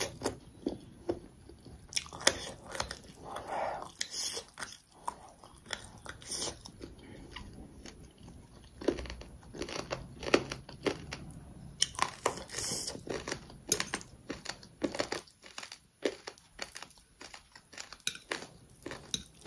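A person chewing a mouthful of food, with irregular clicks and crunches.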